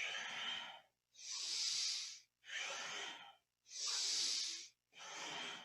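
A person breathing deeply and audibly through the nose in a steady rhythm, a long inhale and a long exhale in turn, about one stroke a second. The breath is paced to a Kundalini yoga spinal exercise.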